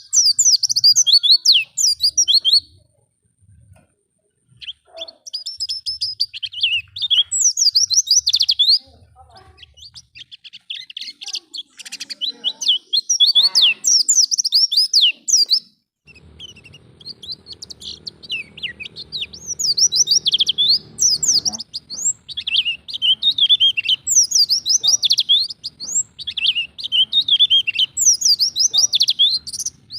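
White-eye (pleci) song in the wild 'ngalas' style: fast, high twittering phrases of quick chirps and trills, repeated in bursts with short pauses. It is the kind of lure song played to draw a young white-eye into singing.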